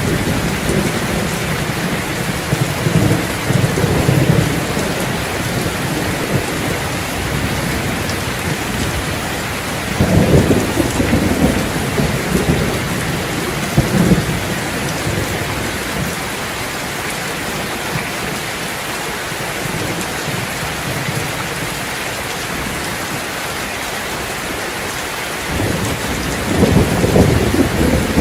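Steady rain with several low rolls of thunder, the strongest about ten seconds in and again near the end.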